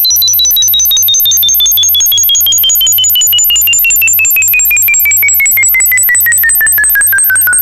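Electronic frequency tones pulsing rapidly: one high tone glides steadily downward while another glides upward above it, over a steady very high tone and a low, repeating throb.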